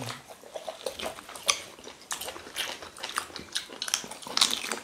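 Close-up eating sounds: biting and chewing boiled chicken from pepper soup, a run of short wet clicks and smacks of the mouth. There are louder smacks about a second and a half in and again near the end.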